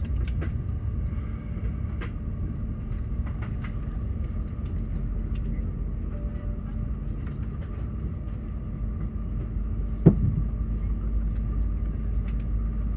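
Airliner cabin noise inside an Airbus A380 during pushback: a steady low rumble with a steady hum, a few faint clicks, and one sharp thump about ten seconds in.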